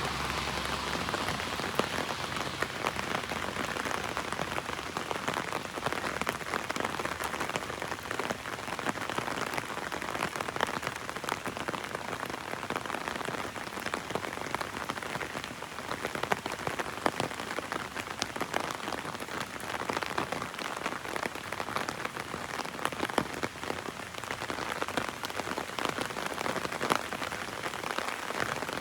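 Heavy rain falling on an umbrella: a dense, steady patter with many sharper single drop hits ticking through it.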